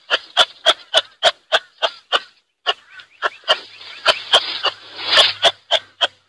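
An animal giving a rapid run of short, sharp calls, about three a second, with a brief pause about two and a half seconds in.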